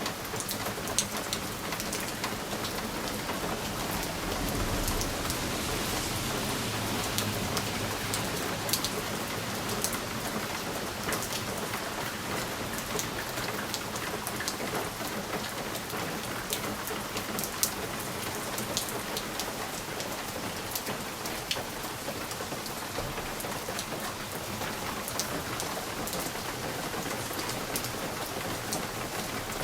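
Steady rain on window glass: a dense hiss with many individual drops ticking sharply. A low rumble swells and fades about five seconds in.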